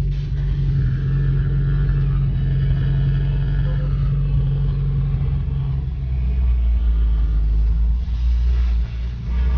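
Car engine heard from inside the cabin while driving slowly in traffic, a steady low drone that drops to a lower pitch about six seconds in.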